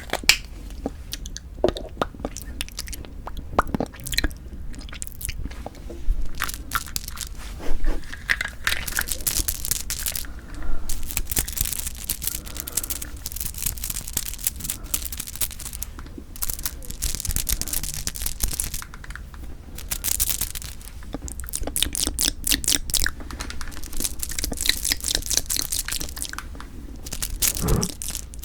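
Close-miked eating of Kiri cream cheese and chaltteok ice (mochi-covered ice cream): bites and chewing with clusters of crisp, crackly clicks, separated by quieter pauses.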